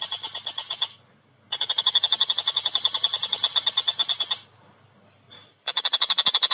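Tengkek buto kingfisher calling in fast runs of sharp, evenly repeated notes, about ten a second. There are three bouts with short pauses between them, about a second in and past the middle.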